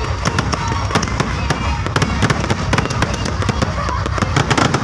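Fireworks crackling: a dense, irregular run of sharp cracks and pops many times a second, with no pause.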